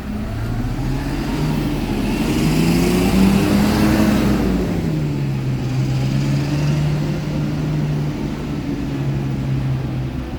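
Isuzu Erga bus's four-cylinder diesel engine running: it revs up over a couple of seconds, then drops back to a lower, steady running note.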